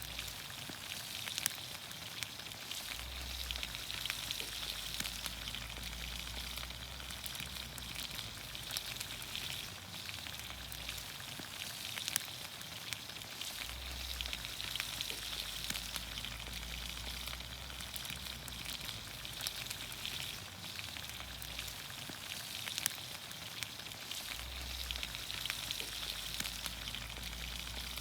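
Vegetables (green beans, onions, carrots and potatoes) sizzling in olive oil over a campfire: a steady hiss dotted with fine crackles.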